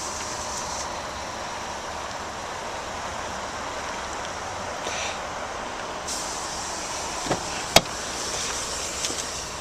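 Steady outdoor background noise, like distant traffic, with one sharp click about three-quarters of the way through.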